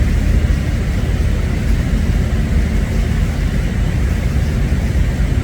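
Steady low rumble of a car ferry under way, with no distinct events.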